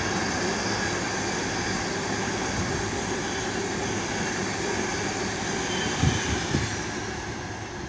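A fast train hauled by a DB Class 90 electric locomotive running through the station without stopping. Its steady rushing rumble slowly fades as it passes and moves away.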